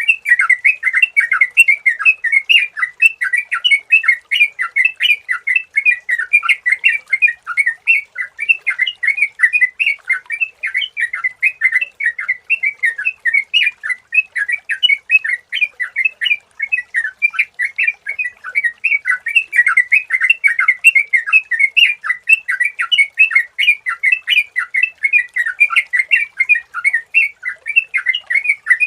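Yellow-vented bulbul (trucukan) singing: a continuous stream of quick, bubbly chattering phrases, several notes a second without a break.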